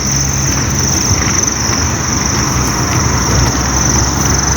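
A motor vehicle engine running nearby as a steady low rumble, with a constant high-pitched whine above it.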